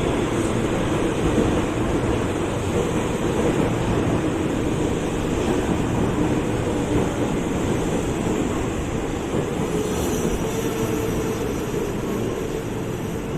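Ex-JR 205 series electric commuter train (KRL Commuter Line) running on the track, a steady loud rumble of wheels and motors that eases slightly near the end.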